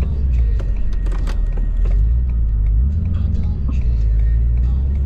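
Ford F-350's 6.7 Powerstroke diesel V8 running under load while plowing snow, a steady low drone whose pitch rises a little about three seconds in. Scattered light clicks and knocks sound over it.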